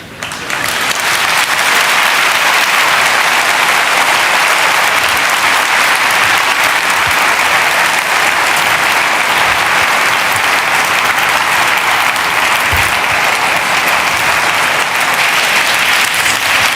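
Audience applauding, swelling within the first second and then holding steady and loud.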